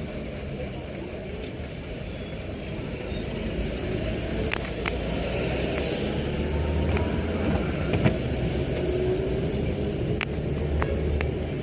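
Car driving on a wet road: a steady engine and tyre rumble with a tyre hiss, and a few short sharp clicks scattered through.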